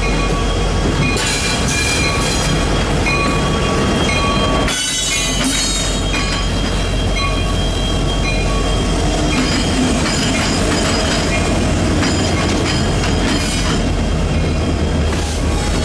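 Train cars rolling past on steel rails with a loud, steady rumble and high-pitched wheel squeal that comes and goes in short repeated squeals.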